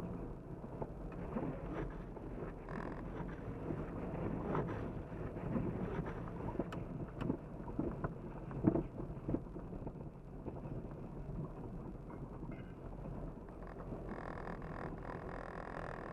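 Jeep Cherokee XJ running slowly over a rough, wet off-road trail: a steady low engine rumble with repeated knocks and rattles as the vehicle bumps over the rocks. Near the end a steady whine with several even tones joins in.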